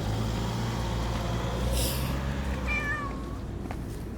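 Domestic cat giving one short meow that falls in pitch, about two-thirds of the way in, in reply to its owner's calls. A low steady hum runs underneath for the first half, with a brief hiss just before the meow.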